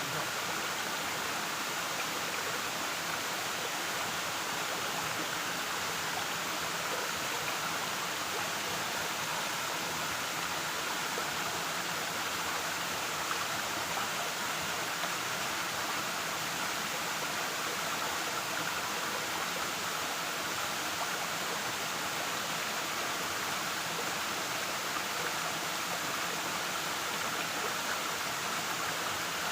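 Waterfall: water falling and rushing steadily, an even hiss-like noise strongest in the upper-middle range.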